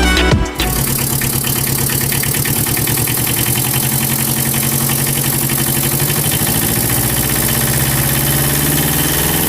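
Small engine running steadily with a fast, even beat. Background music cuts off about half a second in.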